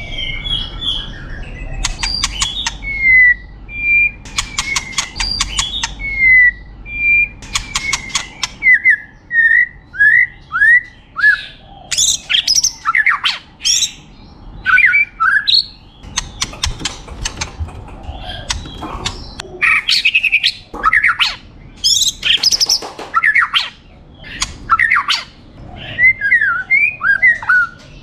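White-rumped shama (murai batu) singing a long, varied song: clear whistled notes and fast rattling trills early on, then many quick sweeping calls. It is a full-repertoire bird whose song is packed with mimicked phrases (isian).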